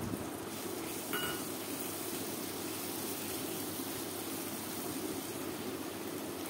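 Onions and chopped tomatoes sizzling in mustard oil in a kadai, a steady frying sound. There is a single brief clink about a second in.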